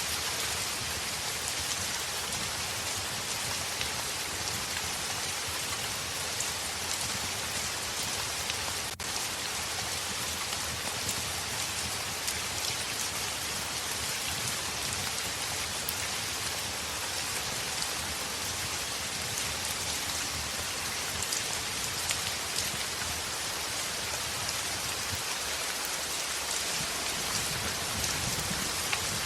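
Heavy rain falling steadily on a window, a dense even hiss with a very brief dip about nine seconds in.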